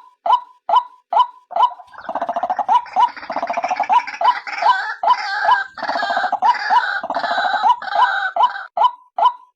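White-breasted waterhen calls, the female's call used as a trapping lure: a steady run of short repeated notes, about two to three a second. From about two seconds in until near the end, a faster, rattling, gurgling call runs over them.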